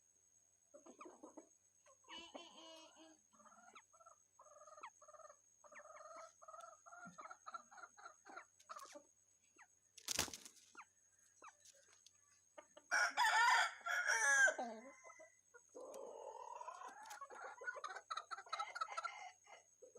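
Rooster clucking in a run of short repeated notes, then crowing loudly about thirteen seconds in, followed by another long drawn-out call. A single sharp click comes about ten seconds in.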